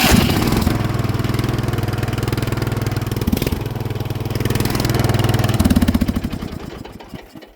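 Lawn mower's small petrol engine running steadily just after it starts, with a brief change in its note near the end before it is shut off and winds down to a stop.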